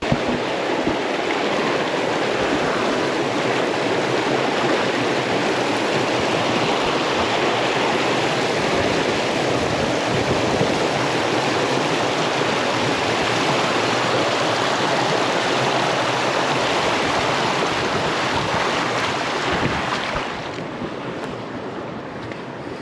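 Creek water running: a steady rushing that starts suddenly and eases off near the end.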